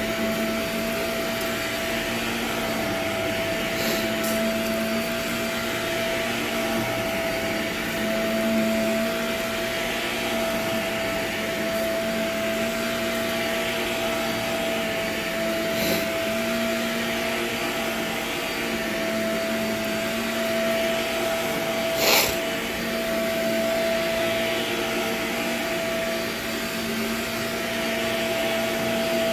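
Vacuum cleaner running steadily over an old, dirty nylon carpet, its motor whining, with a few sharp crunchy clicks as grit and debris are sucked up, the loudest a little past two-thirds of the way through.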